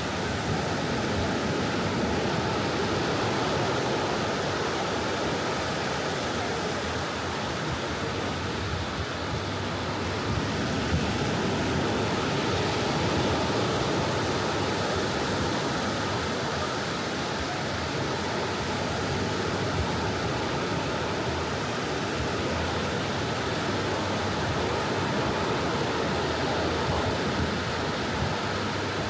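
Soft ocean waves washing onto a beach: a steady wash of surf that swells and eases gently in loudness.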